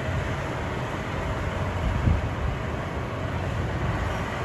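KiHa 183 diesel railcar train running, a steady low rumble with a single thump about two seconds in.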